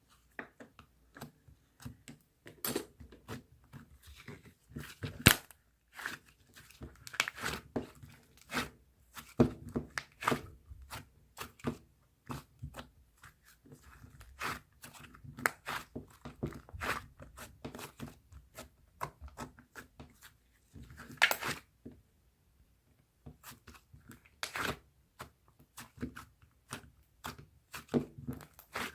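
Hands playing with slime, giving irregular sticky clicks, pops and crackles, with a couple of short pauses.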